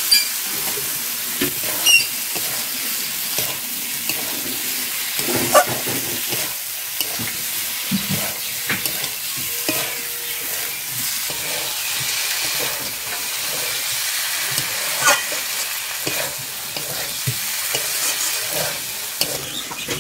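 Fried cauliflower florets sizzling in cooked-down spiced masala in a metal karai, stirred with a long metal spatula: a steady frying hiss with occasional clinks and scrapes of the spatula against the pan.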